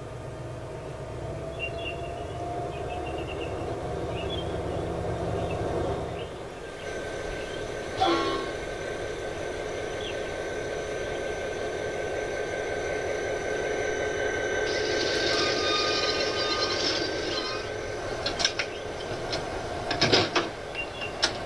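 Train running on the rails with a steady hum, a sharp horn-like sound about eight seconds in, and a few sharp clanks near the end.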